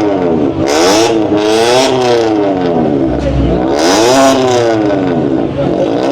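Modified car's loud exhaust as the engine is revved hard several times, its pitch climbing and dropping in repeated blips of the throttle.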